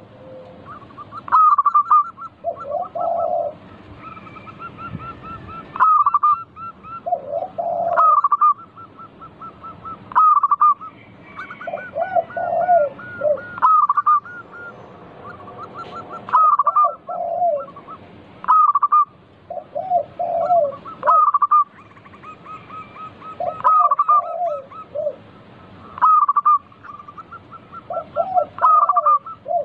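Zebra dove (perkutut) song: a bright note followed by a rapid run of short staccato coos, repeated about every two seconds, with lower cooing phrases in between.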